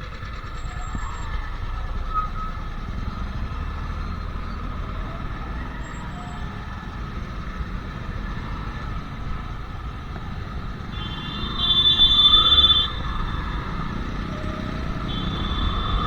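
Royal Enfield Classic 350's single-cylinder engine running steadily under way, heard from the rider's seat in traffic. Late on, a vehicle horn sounds for about a second and a half, the loudest thing here, and a horn sounds again near the end.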